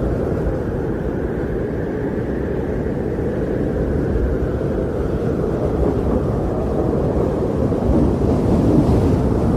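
Wind blowing in a snowstorm, a steady low rushing roar that swells a little near the end.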